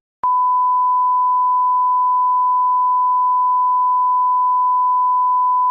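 Electronic beep: one pure, unbroken tone at a single steady pitch, starting abruptly just after the start and holding at a constant loud level without stopping.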